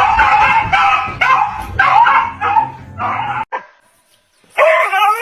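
A dog barking and yipping in quick repeated calls that break off suddenly about three and a half seconds in; after a short gap another loud dog call starts near the end.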